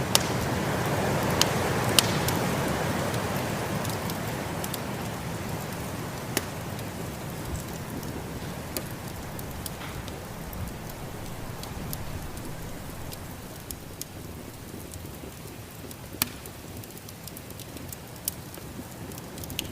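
Wood fire crackling with sharp scattered pops over a whooshing snowstorm wind that is strongest in the first few seconds and then eases off.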